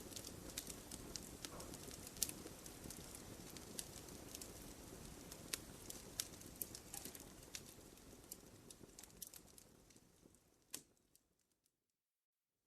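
Campfire crackling: frequent sharp pops and snaps over a low, steady rush of burning wood. The sound fades away towards the end, with one last pop, and cuts to silence for about the final second.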